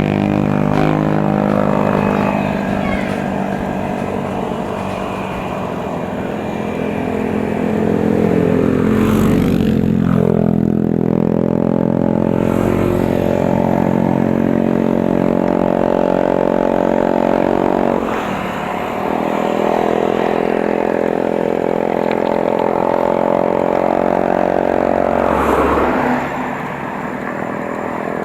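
A motor vehicle's engine running close by, climbing steadily in pitch and dropping sharply three times, as when it shifts up through the gears.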